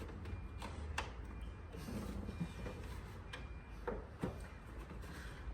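Plastic retaining clips of a BMW F80 M3's front grille snapping as they are pushed and pried out: three sharp clicks, one about a second in and two close together near four seconds.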